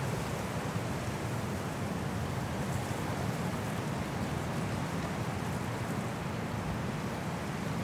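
Strong wind blowing through forest trees in a snowstorm, a steady rushing noise with slight rises and falls.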